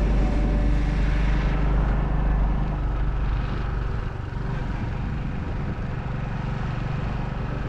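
Royal Enfield motorcycle running along a road, its low engine rumble mixed with wind noise on the rider's microphone; the sound eases off a little about three seconds in.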